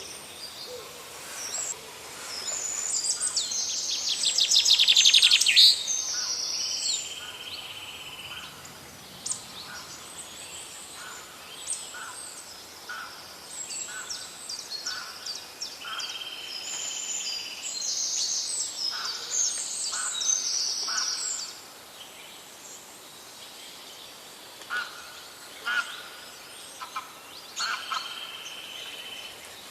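Several birds singing and calling together in a forest chorus, with many short high chirps and trills. A loud, rapid trill stands out from about three to six seconds in.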